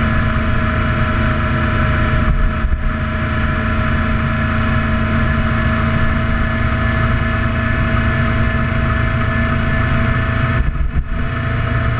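Motorcycle engine running at a steady pace while riding, dipping briefly twice, about two and a half seconds in and again near the end.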